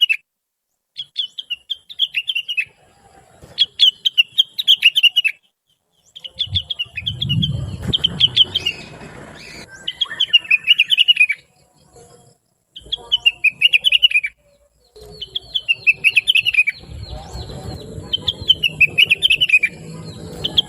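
A leafbird sold as rengganis or cucak wilis sings in repeated bursts of rapid, high chirping phrases about one to two seconds long, separated by short pauses. A low rumbling noise runs under the song twice: from about a third of the way in, and again through the latter part.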